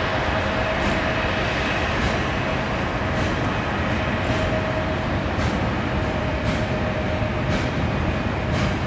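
Container freight train hauled by an electric locomotive rolling past on an elevated line: a steady rumble and hum of wheels on rail, with a sharp clack about once a second as the wagons' wheels cross the rail joints.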